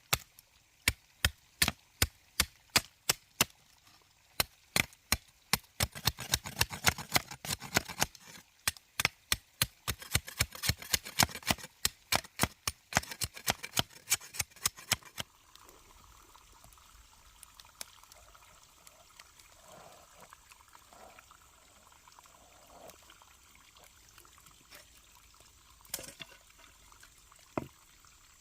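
Rapid chopping with a blade, sharp strikes about two to three a second, for roughly the first fifteen seconds. Then a much quieter stretch with a faint trickle of water and two single knocks near the end.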